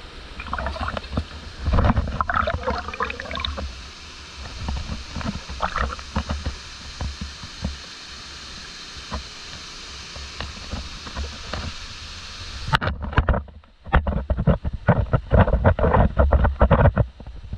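Steady rush of stream water. About two-thirds of the way through the sound changes abruptly to wind buffeting the microphone in low rumbling gusts.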